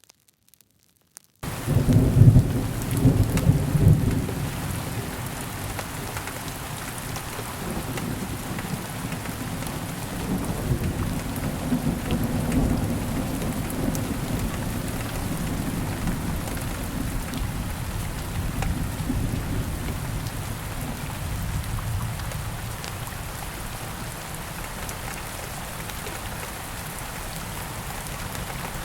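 Steady rain falling, with a roll of thunder. The sound cuts in after about a second and a half of silence, then the thunder rumbles loudest for the next few seconds and slowly dies away under the rain.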